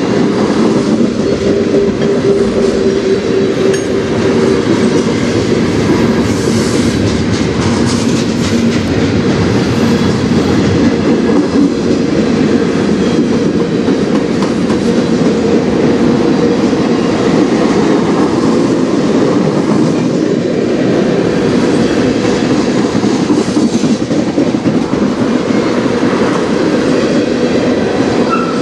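Freight cars of a long manifest train, tank cars and covered hoppers, rolling past close by: a loud, steady rumble of steel wheels on rail.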